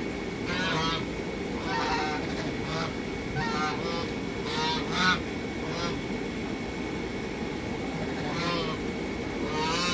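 Domestic geese honking: a string of short, repeated calls, falling quiet for about two seconds after the middle, then two more near the end.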